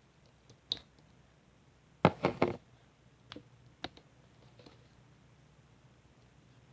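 Slime being pressed and stretched by hand, making small pops and clicks, with three louder pops in quick succession about two seconds in.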